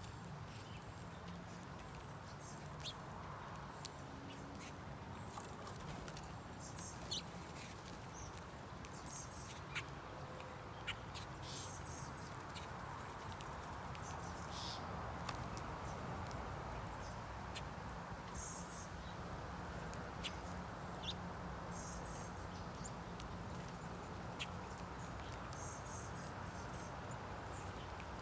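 Birds around a feeder: brief high chirps now and then over a steady low hiss, with many scattered sharp ticks.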